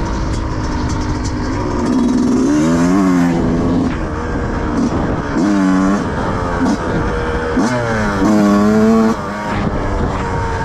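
2005 Yamaha YZ125's single-cylinder two-stroke engine running and revving, its pitch climbing and falling in three louder stretches, about two, five and eight seconds in.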